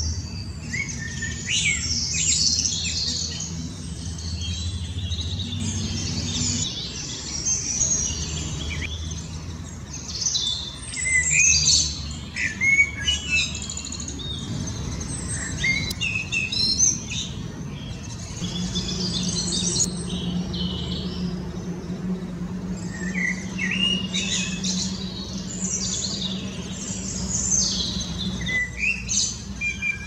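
Woodland birdsong: several birds chirping and singing in short, high phrases that overlap through the whole stretch, over a low steady hum.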